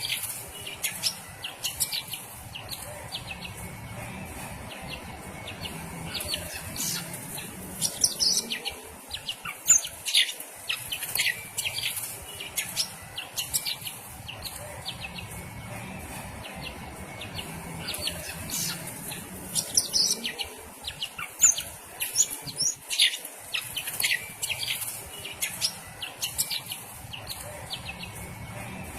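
Cucak ijo (green leafbird) singing a continuous, rapid run of sharp, high chirps and whistles.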